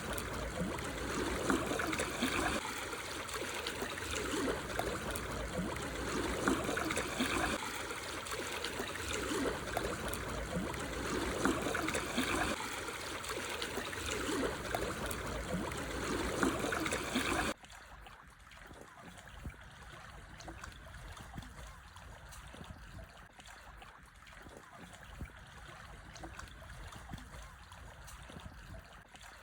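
Small sea waves lapping and splashing over black stones on a shore, a steady wash of water. About two-thirds of the way through it cuts abruptly to a much quieter, thinner wash.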